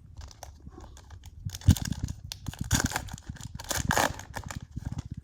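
Trading cards and packaging being handled, with a run of crinkling rustles and clicks and one sharp knock about a second and a half in.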